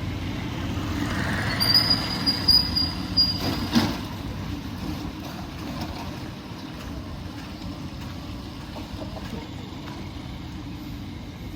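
Street traffic passing on a wet road, with a high brake squeal from about 1.5 to 3.5 seconds in, and a short sharp burst just after it.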